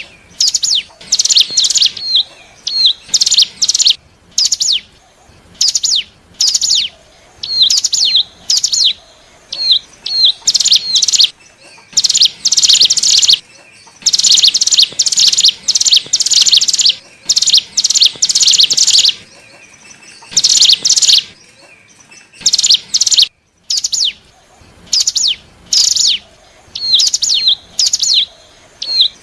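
Ciblek gunung (cigun), a mountain prinia, singing in loud bursts of rapid, high, buzzy chirps with short pauses between them. Some phrases end in small hooked notes. This is a lure-call recording used to draw in wild cigun.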